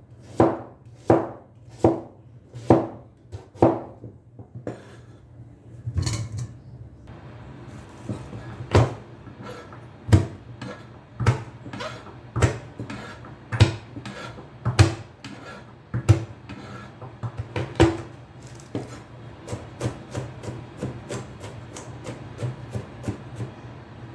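Kitchen knife chopping on a wooden cutting board. At first the strokes come about two a second, then heavier chops about a second apart, and near the end quicker, lighter ones.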